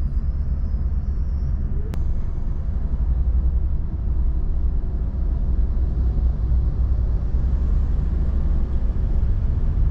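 Steady low rumble of a passenger train running, heard from inside the carriage, with a single sharp click about two seconds in.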